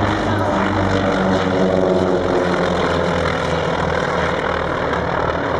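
Propeller-driven airplane flying past, its piston engine note running steadily with even harmonics.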